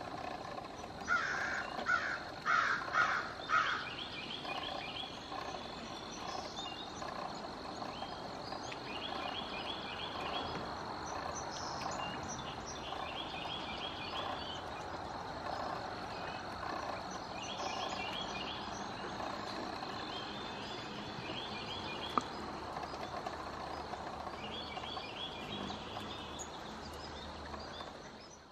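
A bird calling loudly about five times in quick succession near the start, over outdoor insect noise: a steady high tone and short rapid chirping phrases repeating every few seconds. The sound fades out at the end.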